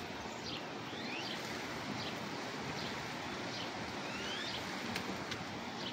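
Faint, scattered bird chirps and short rising and falling whistles over a steady background rush.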